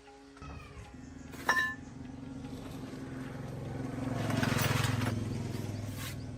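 An engine starts running and swells in level toward the middle, then eases off slightly. A single sharp, ringing metal clink comes about a second and a half in.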